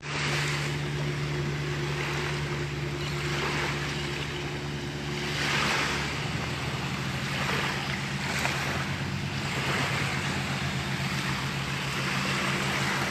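Small waves breaking and washing up the sand, swelling every two to three seconds, over a steady low engine hum.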